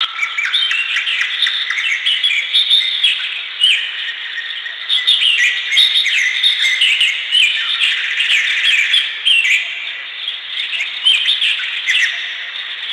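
A dense chorus of small birds chirping and twittering, many short calls sliding up and down in pitch and overlapping, which stops abruptly at the end.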